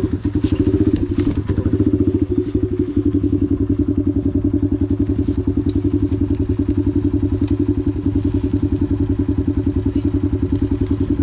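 Dirt bike engine idling steadily with an even, rapid pulse, with a few clunks and clatters in the first couple of seconds.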